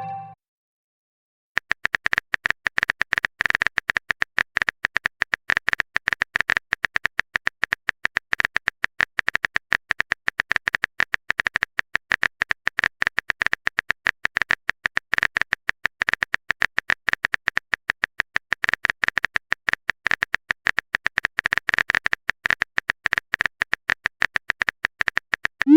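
Rapid, irregular keyboard-typing clicks, many a second, starting about a second and a half in and going on steadily.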